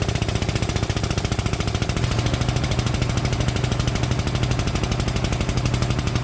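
Air-over-hydraulic pump on a frame-straightening puller chattering in rapid, steady pulses as it drives the ram through a pull on the damaged front end, with a low hum underneath.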